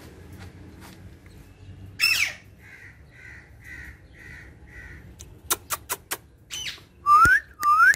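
Green ringneck parrot (rose-ringed parakeet) calling: a sharp squawk about two seconds in, a run of five soft even notes, a few quick clicks, then two loud rising whistled calls near the end.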